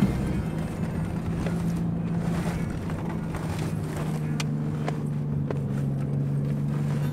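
Engine drone of an SUV heard inside the cabin while driving over desert sand dunes: a steady low hum whose pitch shifts down slightly about four seconds in, with a few faint knocks and rattles.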